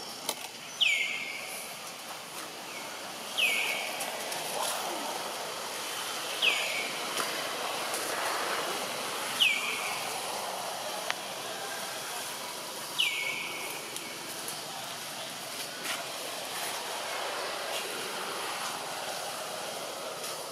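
A bird repeats a short, sharply falling whistled call five times, about three seconds apart, over a steady background hiss.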